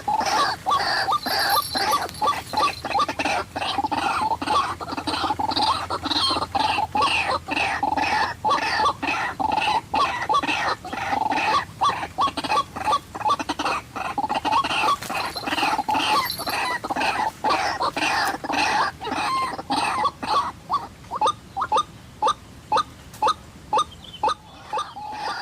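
White-breasted waterhens calling, a dense run of repeated harsh 'kru-ak' notes that thins near the end into separate, evenly spaced notes of about two to three a second.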